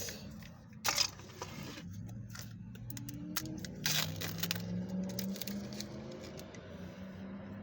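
Small plastic action-figure parts being handled and fitted together, giving a few sharp clicks and light rattles, about a second in and again about four seconds in. A steady low hum runs underneath from about two seconds in.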